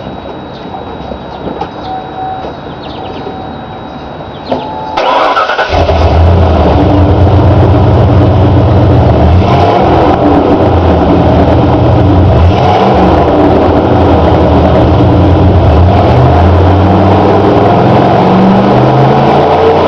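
A 1992 Ford F-150's 5.8-litre (351) V8 exhaust through a Flowmaster muffler: the engine starts about five seconds in after a brief crank, then runs loud and low, with its pitch shifting a little near the end.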